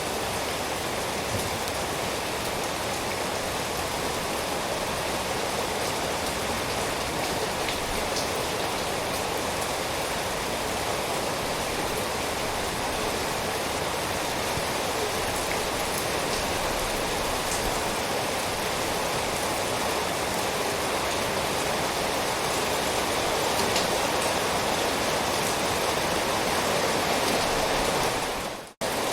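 Rain falling steadily: a dense, even hiss of rainfall with a few faint separate drop ticks. Near the end the sound drops out abruptly for an instant, then resumes.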